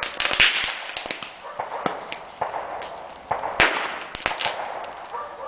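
Leftover firecrackers in a burning box of old fireworks going off in scattered, irregular pops over a hissing crackle, with one of the loudest bangs about three and a half seconds in.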